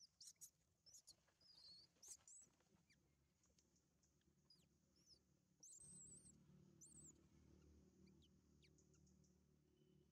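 Faint high-pitched bird chirps and short whistles, scattered and irregular, with a low steady hum coming in about six seconds in.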